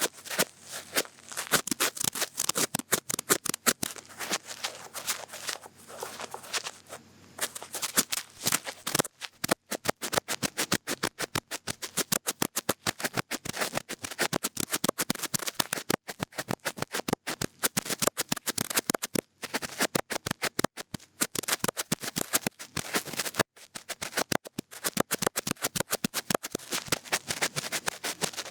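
Cotton bud rubbing and scratching inside an ear, close-miked: a fast, crackly run of short scratching strokes, several a second, with a few brief pauses.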